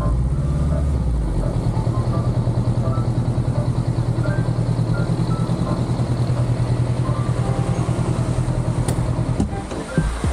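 Honda CBR500R's parallel-twin engine idling with a steady, even pulse. Near the end the steady running breaks up and a few knocks follow.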